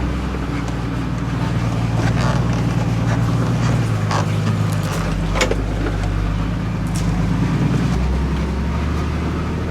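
Dump truck's diesel engine running as the truck drives. Its note shifts about four seconds in and again near eight seconds, with a few sharp knocks and rattles.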